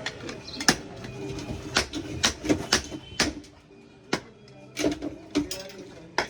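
Irregular sharp clicks and light taps from small hard objects being handled, about one every half second.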